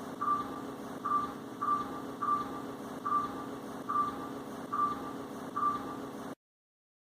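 Electronic beeper sounding a short high beep about once every 0.8 seconds over a steady low hum; both cut off abruptly about six seconds in.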